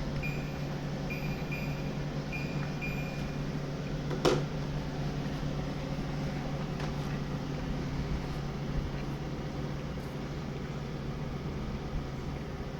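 LG 12,000 BTU inverter window air conditioner running steadily with a hum, its fan winding down to the low setting. About five short high beeps sound in the first three seconds, and a single sharp click comes about four seconds in.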